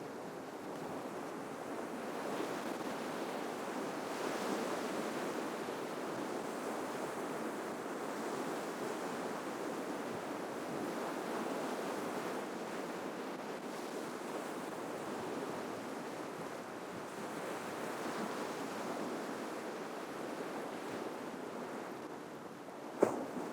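Ocean waves washing onto the shore in a steady surf with slow, gentle swells. A single sharp click near the end stands out as the loudest sound.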